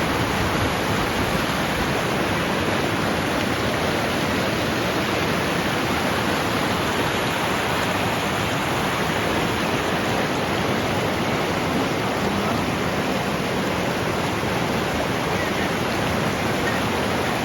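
Rain forest river rushing over rocks: a loud, steady roar of water.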